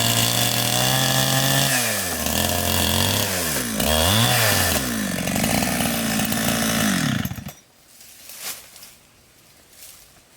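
Two-stroke chainsaw running at high revs, its pitch dropping and climbing again several times as the throttle is let off and reopened, then the engine stops abruptly about seven seconds in. A few faint knocks follow.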